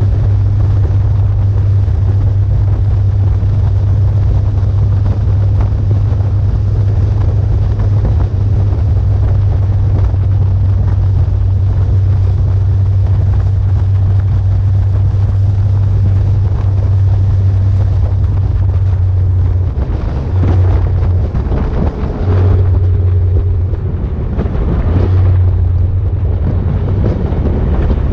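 Motorcycle engine running at a steady speed with a deep, even drone, under wind noise on the microphone. The drone breaks up and changes a few times in the last several seconds.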